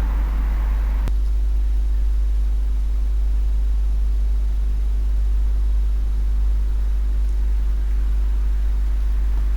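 Steady low rumble with faint steady hum tones above it, and a single sharp click about a second in.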